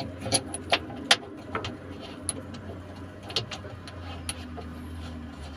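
An engine running steadily as a low hum, with a scattered series of sharp clicks and knocks over it, most of them in the first half.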